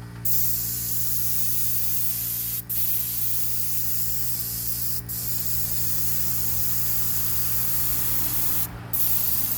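Paint spray gun hissing as it sprays Rust-Oleum paint in steady passes, stopping briefly three times, the last pause near the end the longest. A steady low hum runs underneath.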